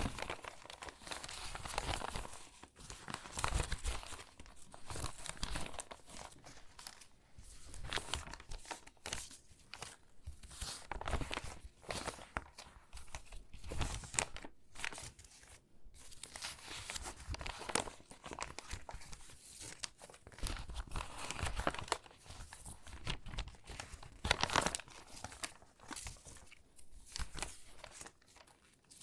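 Water-damaged magazine pages crinkling and rustling as they are handled and sorted, a continual irregular crackle with louder bursts as sheets are lifted and shuffled.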